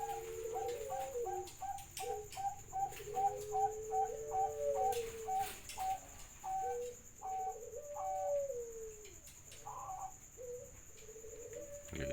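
Contest doves cooing over each other, a lure recording meant to set other doves cooing. One bird gives long, low drawn-out coos. Another gives a fast run of short higher notes that slows to a few spaced notes over the first seven seconds. A faint steady high whine runs underneath.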